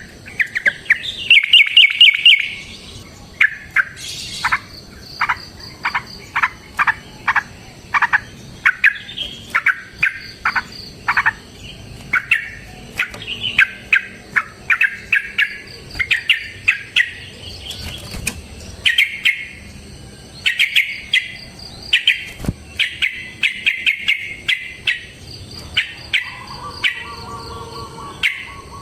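Yellow-vented bulbul (trucukan) singing a long run of short, loud chattering notes, several a second, in bursts with brief gaps. A faint steady high-pitched insect hum sits underneath.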